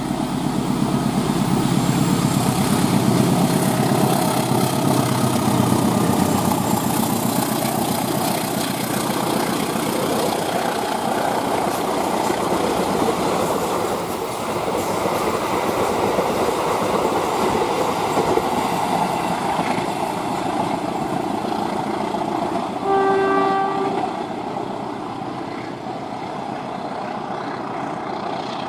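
Train passing, a loud steady rush of wheels on rails. Late on comes one horn blast about a second long.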